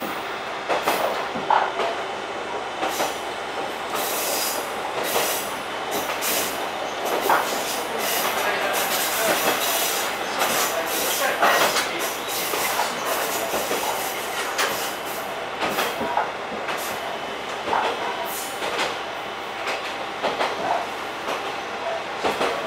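Diesel railcar running along the track, heard from inside the car: a steady rumble of wheels on rail with irregular clacks and knocks as the wheels pass over rail joints.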